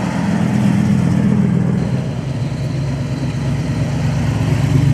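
A car engine idling with a steady low rumble that swells slightly about a second in and again near the end.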